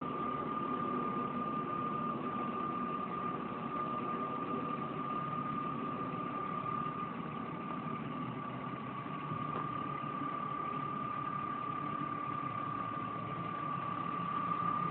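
BMW E36 M3 straight-six engine running steadily, with a constant high-pitched whistle, a whine of unknown cause, sounding over it.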